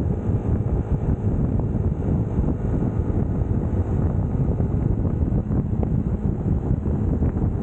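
Steady wind rumble buffeting the camera microphone on a moving UM Scrambler X Naked motorcycle, with the engine running underneath at a constant cruising pace.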